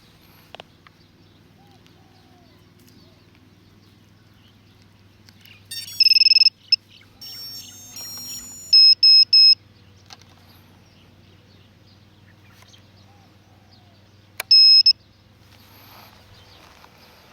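FrSky Taranis radio transmitter beeping after start-up: a loud high beep about six seconds in, a short run of quick beeps a couple of seconds later, and a double beep near the end. A faint low hum continues underneath.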